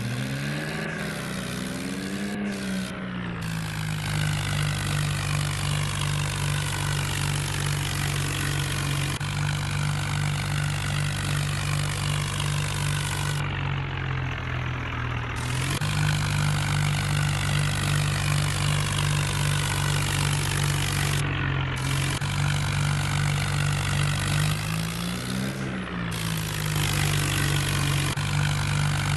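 John Deere tractor's diesel engine running at a steady speed. Its pitch rises and falls briefly near the start, and again once a few seconds before the end.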